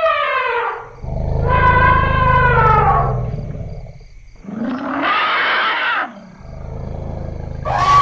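Elephants calling in a series of loud, overlapping calls. A trumpet slides down in pitch and fades in the first second. A long call with a deep rumble beneath it follows, then a shorter, harsher trumpet about five seconds in. Another rumble near the end leads straight into a fresh trumpet.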